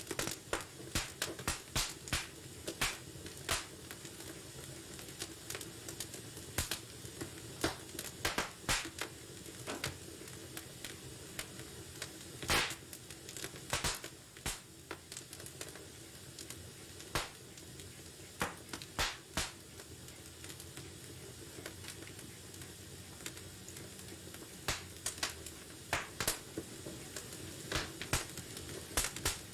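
Wood fire burning in a fireplace: a steady low hiss with irregular sharp crackles and pops from the burning logs, thinning out in the middle and growing busier again near the end.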